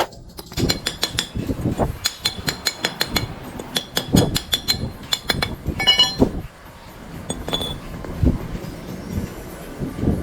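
Metal parts and tools clinking and tapping: a string of sharp strikes, many with a brief metallic ring, and a cluster of ringing clinks about six seconds in.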